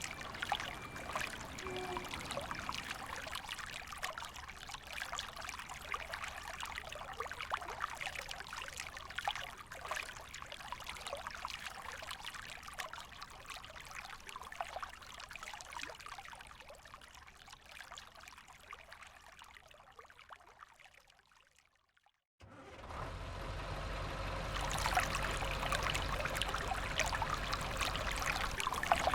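River water flowing and trickling. It fades away about three quarters of the way through, cuts out briefly, then comes back as a louder, fuller rush of water.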